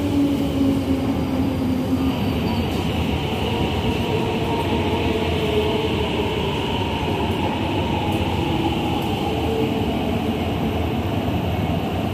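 Metro train running past an underground station platform: a steady sound of wheels on rail with a hiss, and from about two seconds in a brighter high hiss joins it, with faint whining tones.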